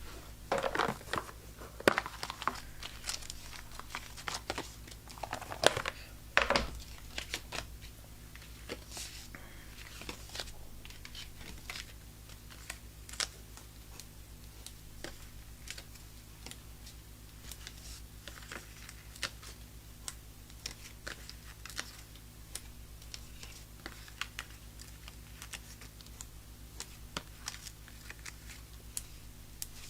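Paper crafting sounds: crinkling and tearing of paper and adhesive backing being peeled off foam dimensionals, with many small crisp ticks as card pieces are handled and pressed down. The rustles are louder in the first seven seconds, then turn to lighter scattered ticks over a steady low hum.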